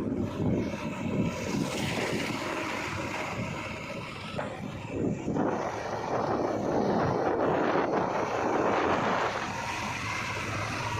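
JCB 3DX backhoe loader working, its diesel engine running under wind noise on the microphone, with a louder rushing stretch from about halfway to near the end.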